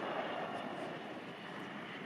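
Steady rushing noise of a jet airliner's engines.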